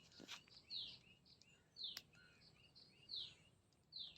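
A bird calling in the background, a short falling chirp repeated about once a second with fainter chirps between, and a single sharp click about two seconds in.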